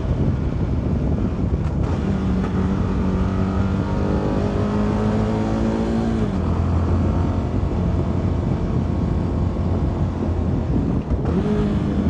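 CFMoto 300NK's single-cylinder engine pulling through a gear with its pitch rising, then dropping suddenly about six seconds in as it shifts up, and running on steadily at lower revs.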